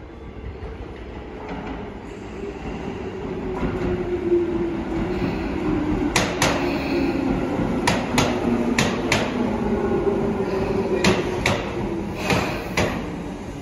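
Tobu 10000-series electric commuter train pulling into the platform and slowing, with a low tone that falls in pitch as it slows. From about six seconds in come five pairs of sharp wheel clicks, each pair a bogie's wheels passing over a rail joint.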